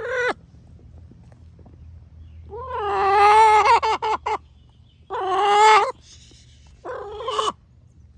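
Orpington hens giving loud, drawn-out calls: a short one at the start, then three longer calls with a wavering pitch. The longest lasts nearly two seconds, and the last ones come about a second apart.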